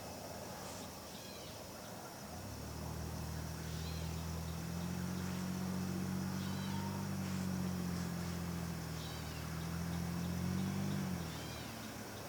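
A Nathan Airchime K5LA train horn sounding from a distance: one long steady chord of several tones that starts about two seconds in, swells, and cuts off sharply after about nine seconds. Faint short chirping calls repeat every couple of seconds behind it.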